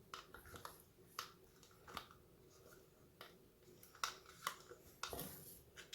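Faint, scattered clicks and soft knocks, about half a dozen, of a spoon and bowl being handled while applesauce is spooned in.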